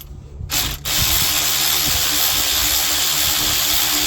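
Power tool driving an 11 mm socket to undo engine bolts. A short burst comes first, then it runs steadily from about a second in.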